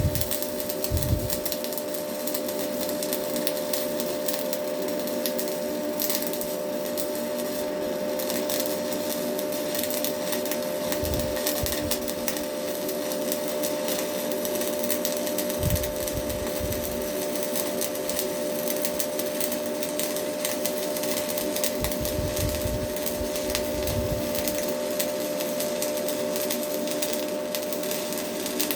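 Stick-welding arc from a Hilco 6013 electrode, burning steadily with a continuous crackling sizzle over a steady hum, as a single long bead is laid.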